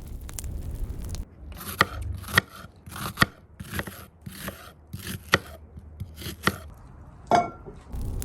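A knife chopping food on a cutting board: about a dozen crisp, unevenly spaced strokes, then a short ringing clink near the end.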